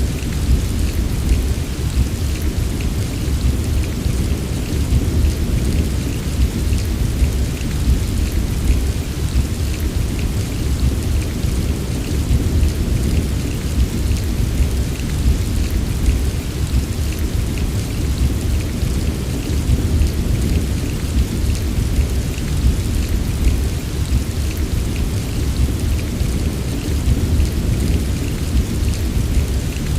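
Steady heavy rain with a constant deep low rumble underneath and many small drop ticks, without letup.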